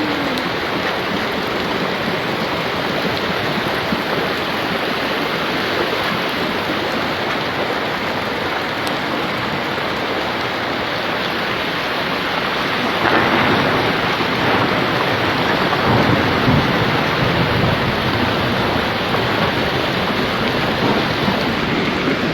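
Heavy rain pouring down in a steady hiss. About halfway through it grows louder, with a deeper rumble underneath.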